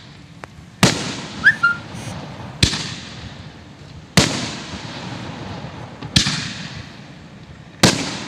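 Aerial firework shells going off: five sharp, loud bangs about one and a half to two seconds apart, each trailing off in an echoing rumble, with a smaller pop between the first two.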